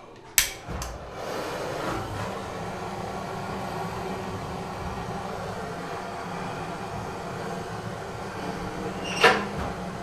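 A sharp metallic click about half a second in, like the latch of a cast-iron fireplace door, then a steady rushing noise with a low hum as the wood fire draws in the firebox. A single sharp knock comes near the end.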